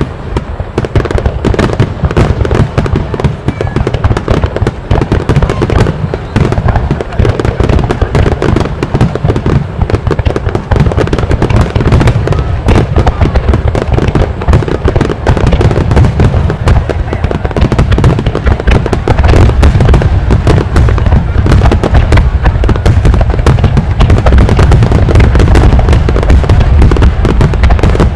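Aerial firework shells bursting in a dense, continuous barrage: overlapping booms with crackle, growing louder and denser about two-thirds of the way in.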